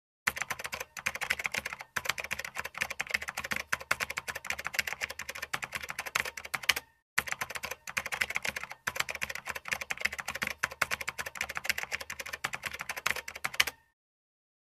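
Fast typing on a computer keyboard: a dense, uneven run of key clicks. There is a short break about seven seconds in, then the typing resumes and stops shortly before the end.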